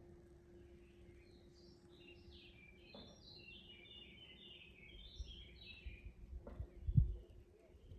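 A small songbird sings a quick twittering phrase of many short high notes lasting about five seconds. A low rumble builds near the end and peaks in one brief loud thump about seven seconds in.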